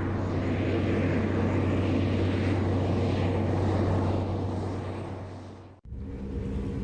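Heavy road-train truck's diesel engine and tyres running steadily, fading near the end. There is a sudden cut just before the end to another engine running.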